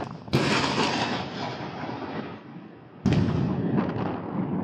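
Two close lightning strikes: a sharp thunderclap about a third of a second in and another about three seconds in, each dying away in a rumble over a couple of seconds.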